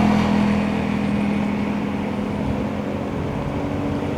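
A steady motor hum holding one constant pitch, over a low rumble.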